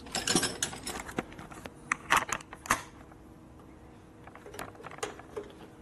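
Small metal parts and hand tools clinking and rattling: a quick flurry of clicks, a few sharp clinks about two seconds in, then scattered light ticks.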